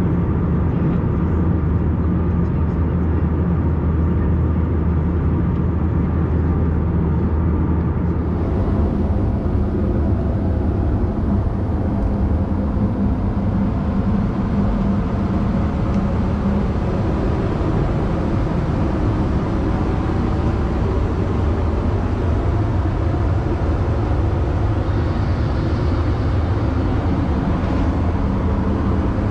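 Steady cabin noise of an Airbus A321-200 in cruise flight: a loud, even drone of engines and airflow with a low hum. Its tone shifts slightly about eight seconds in.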